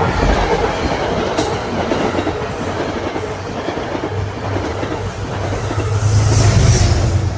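Metro-North passenger train passing close by at speed: a loud, steady rush of wheels on rail with a low hum, swelling to its loudest about six seconds in.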